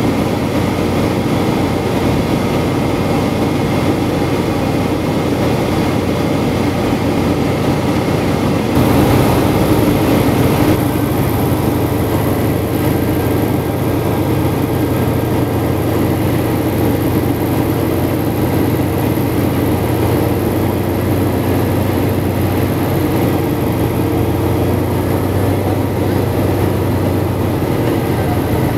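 Antonov An-2 biplane's nine-cylinder radial engine and propeller running steadily in flight, heard from inside the cabin. About nine seconds in the sound steps up slightly louder, with more high-pitched hiss.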